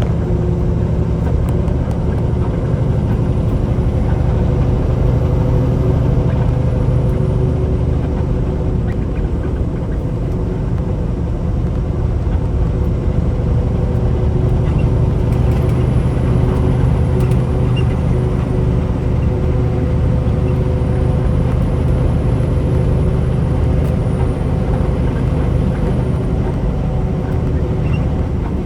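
Semi-truck engine and road noise heard from inside the cab while driving: a steady low drone with a constant engine hum.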